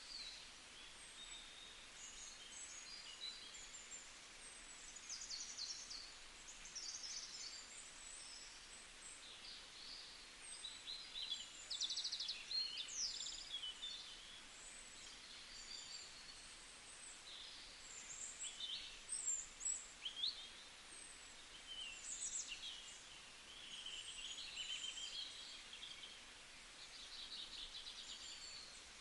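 Many small birds chirping and trilling on and off, high-pitched and fairly faint, over a faint steady hiss.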